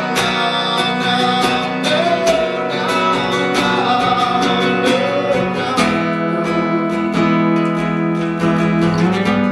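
Acoustic guitar strummed steadily as song accompaniment, changing chord about six seconds in.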